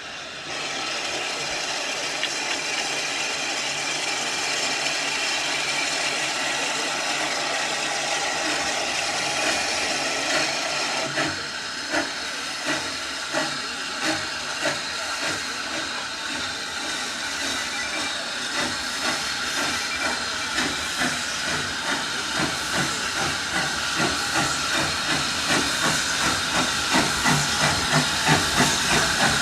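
Steam locomotive letting off a steady hiss of steam, then starting away: from about a third of the way in, its exhaust beats begin, quickening and growing louder toward the end.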